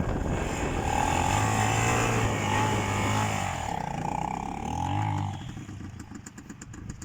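Small off-road vehicle engine revving up and down, with its pitch wavering and gliding, then falling away about five and a half seconds in.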